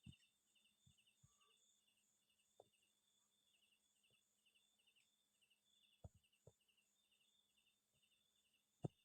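Near silence with faint insect chirping, a steady pulse of about three chirps a second, and a few soft taps, the clearest near the end.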